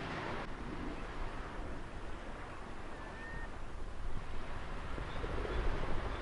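Ocean waves and wind: a steady rushing surf noise with a low rumble that swells near the end, and a brief faint high call about halfway through.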